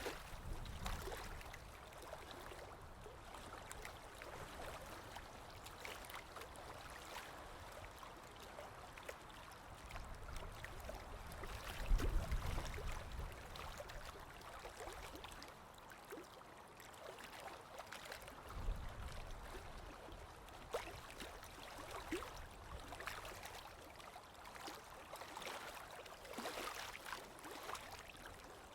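Running water trickling and gurgling, with many small splashes and drips. A brief low rumble a little before the middle is the loudest moment, and a second one comes about two-thirds of the way through.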